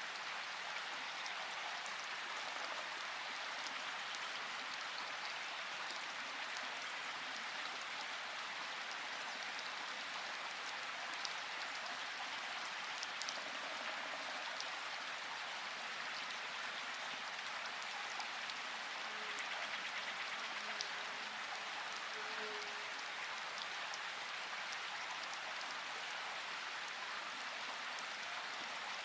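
Steady, even hiss of background noise, like rain, with a few faint light clicks scattered through it.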